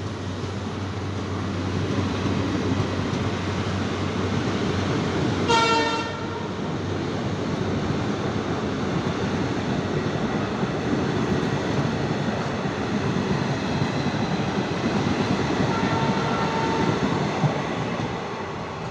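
Indian Railways train hauled by an electric locomotive running at speed, a steady rumble of wheels on rail, with one short horn blast about five and a half seconds in.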